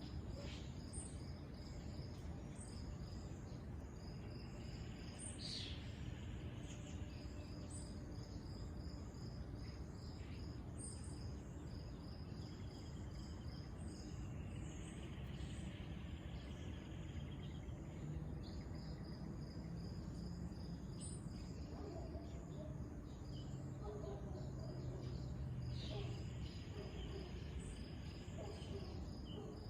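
Insects chirping in an even, repeating pattern over a low, steady background hiss, with a few brief higher calls in between.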